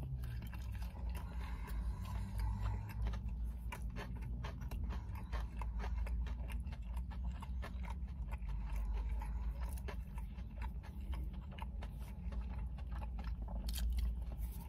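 A man chewing a McDonald's sweet chilli chicken wrap close to the microphone: a steady run of small, wet mouth clicks and smacks, with a fresh bite taken near the end.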